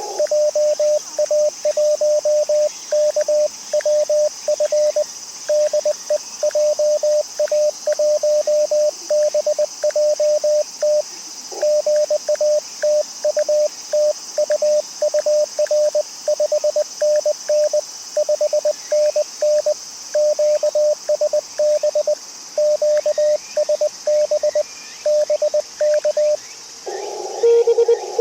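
A ham radio transceiver's CW sidetone: a single steady mid-pitched tone keyed on and off in Morse code at about 20 words per minute as the operator sends. Near the end the sending stops and the receiver's narrow band of hiss returns.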